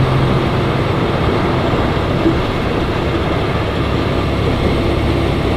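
Truck driving at road speed: steady engine drone and road noise, with a low engine tone that fades about half a second in and a higher tone coming in near the end.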